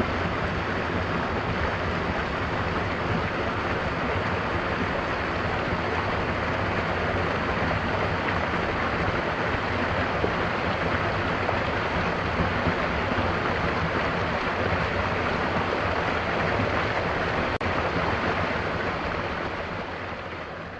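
Mountain waterfall pouring, a steady, even rush of falling water that begins to fade out near the end.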